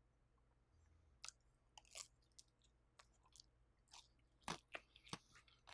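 Crunching and chewing of crisp air-fried vegetable gyoza: irregular sharp crunches begin about a second in, the loudest near the end.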